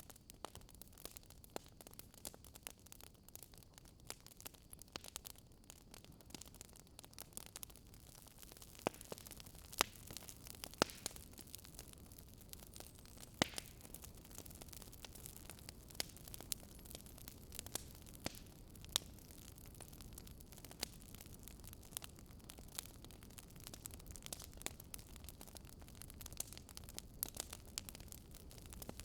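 Wood fire crackling in a fireplace: irregular sharp pops and snaps, a few louder than the rest, over a low steady hiss of burning.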